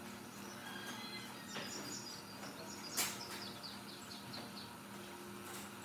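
Birds chirping, with a quick run of short falling chirps just after a sharp click about three seconds in, over a steady low hum.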